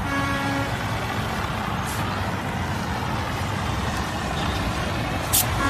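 Motor vehicle running, with a steady low rumble and road noise. A short pitched tone sounds at the very start, and a sharp click comes near the end.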